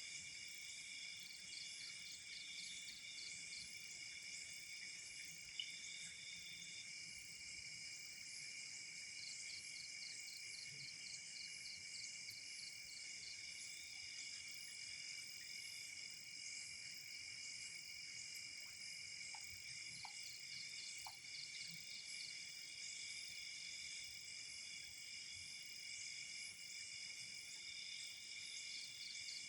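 Night chorus of crickets and other insects: several steady high trills layered together, with bursts of fast pulsed chirping that start and stop. One sharp click about five seconds in.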